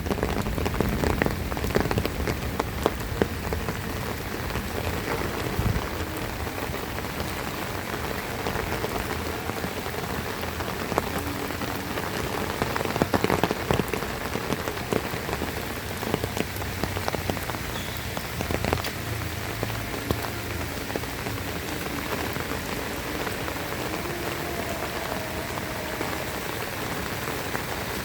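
Heavy rain falling steadily, a dense patter of drops with sharper individual drop hits scattered through it.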